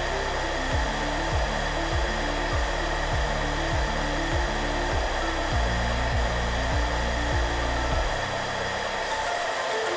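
Hair dryer running steadily, a continuous airy rush with a faint whine, blended with soft background music whose low notes pulse about one and a half times a second and fade out about eight seconds in.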